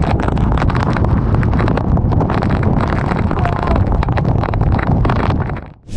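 Strong storm wind gusting hard and buffeting the microphone: a loud, rushing noise with a heavy low rumble. It cuts off just before the end.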